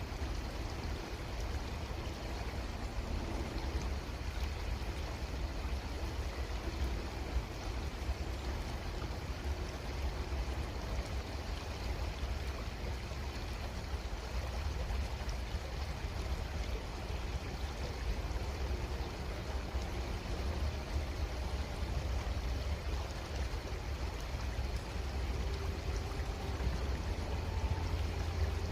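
Creek water running steadily, a continuous rushing with a low rumble underneath.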